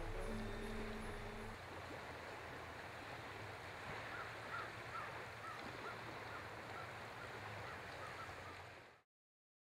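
Music trailing off about a second and a half in, then a faint, steady outdoor hush with a run of repeated bird calls. The sound cuts off suddenly near the end.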